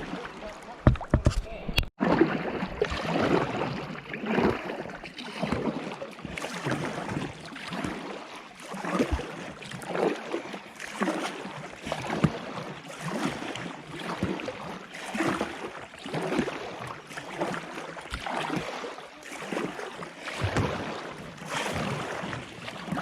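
Canoe paddle strokes in the water, one surge of splashing and dripping about every second, from a homemade shrink-wrap canoe. A brief low rumble comes first and cuts off abruptly about two seconds in.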